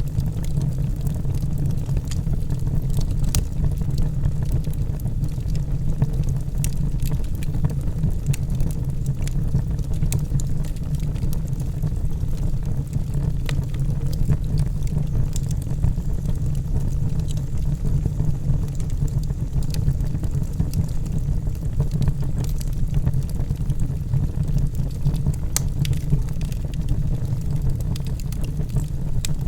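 Logs burning in a fireplace: a steady low rumble with many sharp crackles and pops scattered throughout.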